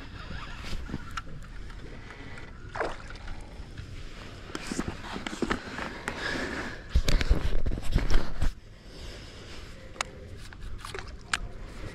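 Scraping, clicks and knocks of a hooked spotted bay bass being brought in and handled aboard an inflatable kayak, with a burst of heavy low thumps about seven seconds in.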